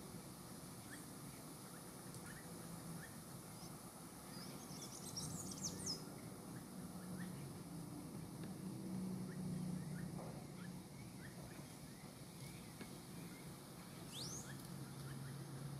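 Faint outdoor background of a low steady hum with small birds chirping. A quick cluster of high chirps comes about five seconds in, and a single rising chirp comes near the end.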